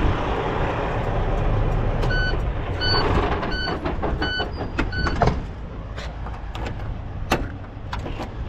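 Semi truck's diesel engine idling, with a run of about five evenly spaced electronic warning beeps about two seconds in. After them come a few sharp clicks and knocks as the overall sound gets quieter.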